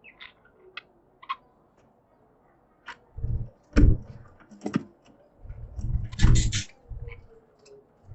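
Caged budgies giving short, scattered chirps, mixed with several sharp clicks and low thumps, the loudest about four and six seconds in.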